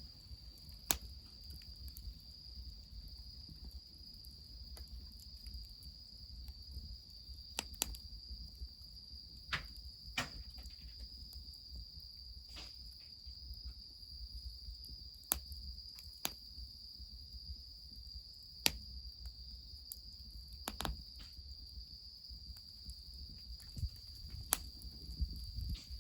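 Wood fire crackling, with sharp pops at irregular intervals, over a steady high-pitched insect trill and a low rumble.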